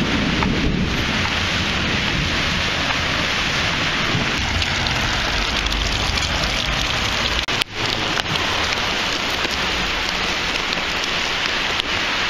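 Heavy rain pouring down onto pavement in a dense, steady hiss. It cuts out for a moment about seven and a half seconds in, then resumes.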